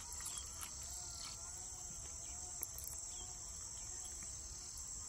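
Insects chirring steadily at a high pitch, with a faint wavering tone underneath.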